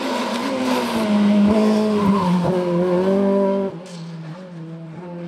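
Race car engine at full throttle on a hill climb. Its note drops over the first second and then holds steady, and the sound falls away sharply a little under four seconds in.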